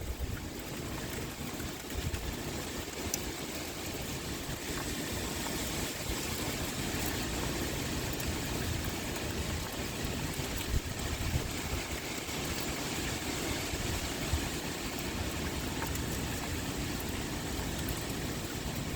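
Heavy rain pouring steadily, with wind blowing.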